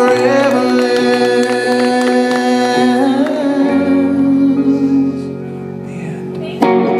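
Live solo performance of a pop-rock ballad: a male singer holds a long note over sustained accompaniment. The music softens about five seconds in, then a sudden loud chord comes in near the end.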